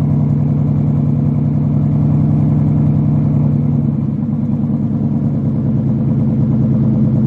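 2016 Ford Mustang GT's 5.0 L V8 idling steadily through an AWE Track Edition cat-back exhaust, with a slight change in tone about four seconds in.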